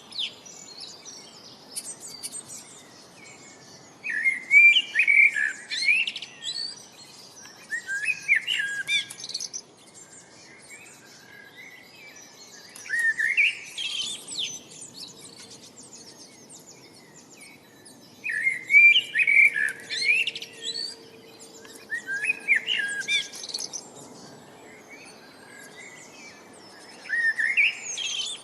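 A songbird singing, repeating a short phrase of rising chirps every four to five seconds, over a faint steady background hiss.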